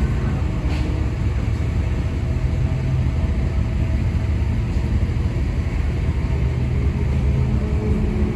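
Formula One car engine running steadily at low revs, a deep, low-pitched sound without rises or falls.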